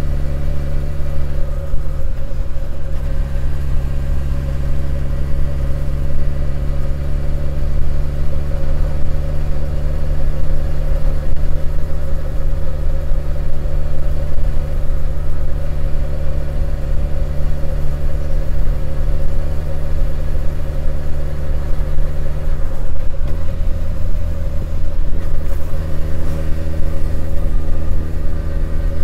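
Honda CB1100EX motorcycle's air-cooled inline-four engine running steadily while riding, heard from the rider's position. The engine note changes briefly near the start and again toward the end.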